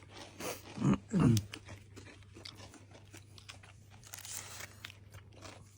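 Someone biting and chewing a crispy pastry, with many small crunching clicks. Two short falling voice sounds come about a second in.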